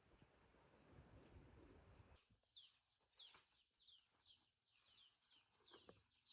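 Faint, high chirping of small birds: short downward-sliding chirps repeating several times a second, starting about two seconds in after a faint low rumble.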